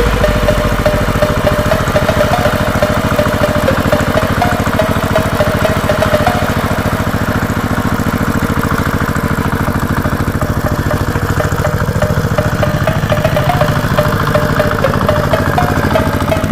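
Small engine of a DIY mini tractor running steadily at an even, rapid firing beat.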